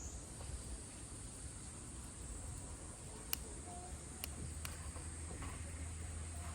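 Insects chirring steadily in a high band, with a low rumble underneath and a few sharp clicks about halfway through.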